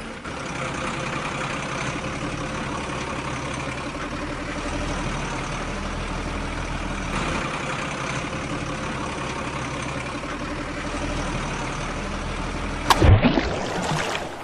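Engine idling steadily, with a short louder burst about thirteen seconds in.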